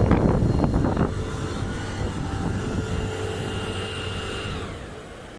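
Concrete pump truck machinery running: a loud rumble that drops abruptly about a second in to a quieter steady running sound with a faint whine, fading out near the end.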